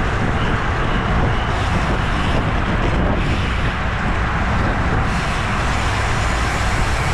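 Steady wind rush buffeting the microphone, with road noise, from a bicycle riding in a criterium pack.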